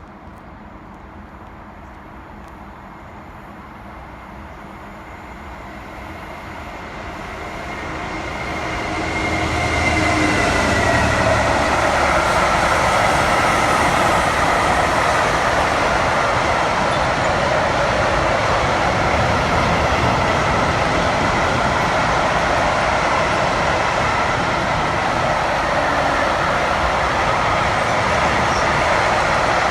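A train approaching and growing louder over about ten seconds, with a faint tone that drops slightly in pitch as it draws level. It then passes close by with a steady, loud running noise for the rest of the time.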